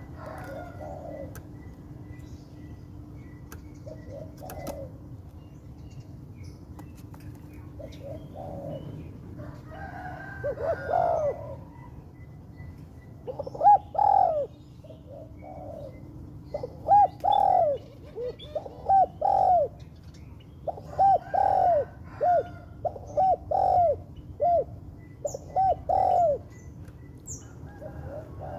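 Spotted dove (tekukur) cooing: a few faint calls at first, then from about halfway through a long run of short, loud coos repeated in quick phrases. A smaller bird gives a few brief high chirps near the end.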